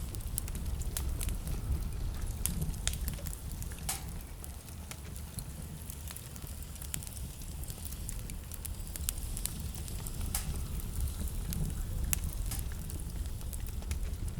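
Wood fire burning in a fireplace, crackling with irregular sharp pops, over a steady low rumble of blizzard wind.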